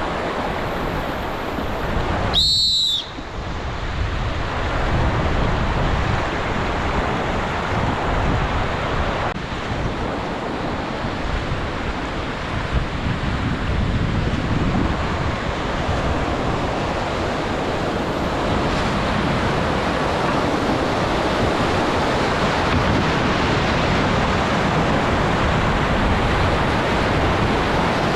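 Rushing river water around a raft, a steady loud rush, with a brief high whistle-like tone about three seconds in.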